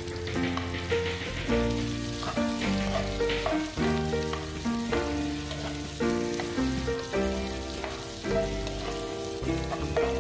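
Sliced onions, garlic, green chillies and curry leaves sizzling in hot oil in a pan as they are stirred with a spoon. Background music with a melody and bass line plays over it throughout.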